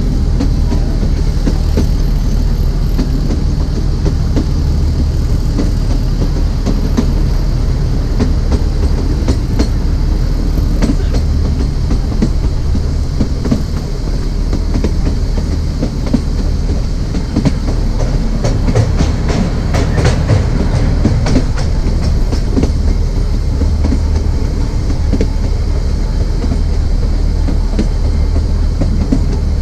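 Narrow-gauge passenger train running, heard on board: a steady low rumble with the wheels clicking over the rail joints, the clicks coming thickest about two-thirds of the way through.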